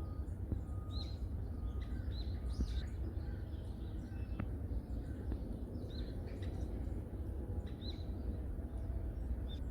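Small wild birds calling in a forest, giving short high chirps every second or two, over a steady low rumble.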